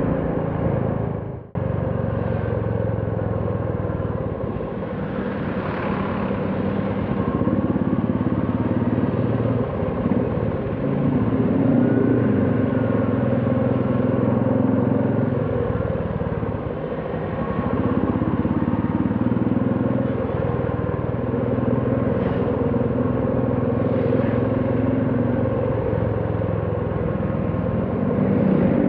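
Royal Enfield Classic 350's single-cylinder engine and exhaust running under way, its pitch rising and falling several times as the rider changes speed, over road and wind noise. The sound drops out briefly about a second and a half in.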